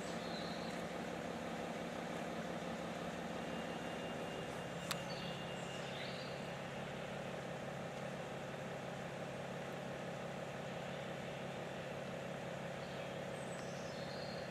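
A fire engine's engine idling steadily with a low, even hum, and one sharp click about five seconds in.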